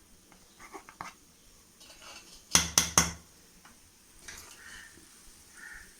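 Metal utensils and cooking vessels clinking and knocking together: a few light clinks, then three sharp knocks in quick succession about two and a half seconds in.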